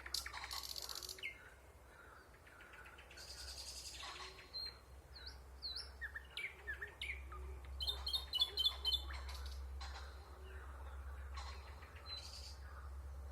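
Nightingale singing a run of varied phrases: buzzy rattling strokes, whistled slurred notes, and a rapid series of clear repeated notes about eight seconds in. A steady low hum runs underneath.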